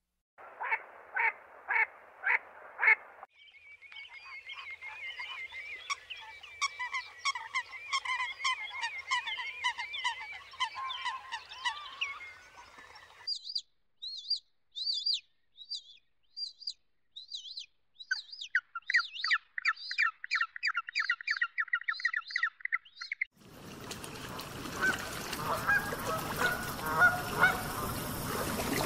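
A run of bird calls: about five quacks from ducks, then a long stretch of dense chattering, warbling calls, then rapid high chirps. Near the end, black swans call over a noisy outdoor background.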